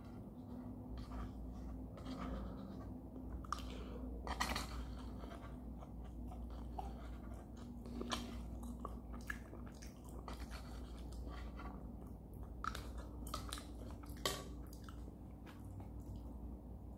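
Close-miked chewing of shrimp fried rice: moist mouth clicks and soft crunches at an irregular pace, with a couple of sharper clicks standing out, about four and a half and fourteen seconds in.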